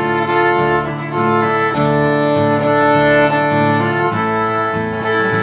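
A band playing the opening bars of a tune, with long held melody notes.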